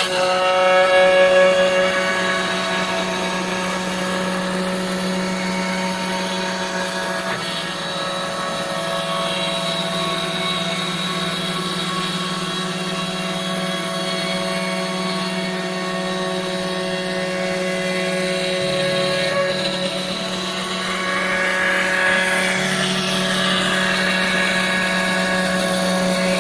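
CNC router spindle running steadily while carving walnut: a steady, many-toned motor whine over a lower hum that shifts in pitch a few times.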